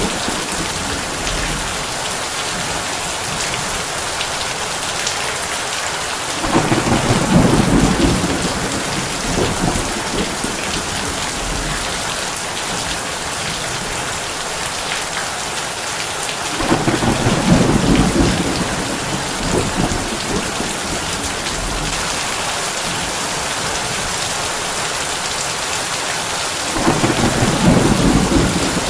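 Heavy rain drumming on a tin roof, a steady hiss, with three low rolls of thunder about ten seconds apart, each lasting two or three seconds.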